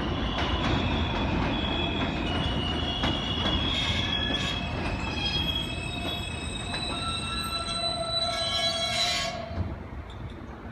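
NYC subway train rumbling along the track, its steel wheels squealing in several high, shifting tones. The squeal and rumble fall away sharply about nine seconds in.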